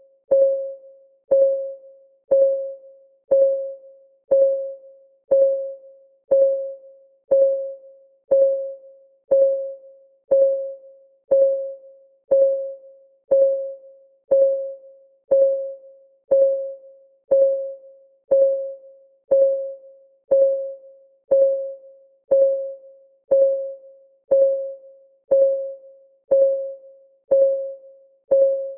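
Clock ticking steadily at one tick a second, each tick a short click with a brief ringing tone that dies away quickly.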